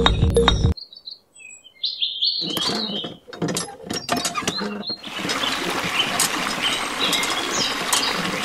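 A miniature hand pump's handle clicking and knocking as it is worked, then, about halfway through, a thin stream of water running steadily from its spout into a small trough.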